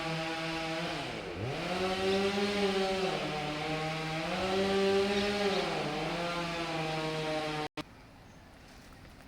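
Two-stroke chainsaw running at high speed while cutting a large anjili tree, its pitch sagging and recovering three times as the chain bogs in the wood. It cuts off suddenly near the end.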